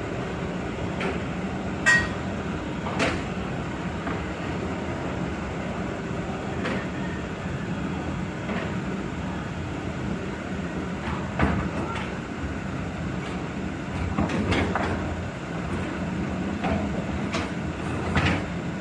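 Hitachi hydraulic excavator running steadily, its engine a constant hum, with sharp metallic clanks from time to time, the loudest about two seconds in.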